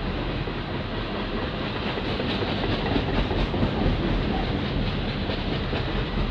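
Covered grain hopper cars of a freight train rolling past: a steady rumble of steel wheels on rail, with a run of faint wheel clicks in the middle.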